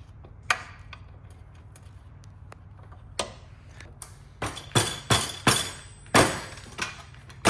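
Sharp metallic clinks and knocks from hand tools and parts on an e-bike's rear brake caliper and frame. A few scattered clicks come first, then a quick run of loud strikes with a brief metallic ringing, about four and a half to six and a half seconds in.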